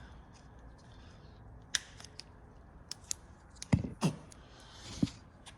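Electrical tape being handled and cut: a few sharp snips and clicks, then a short tearing rasp near the end, all fairly quiet.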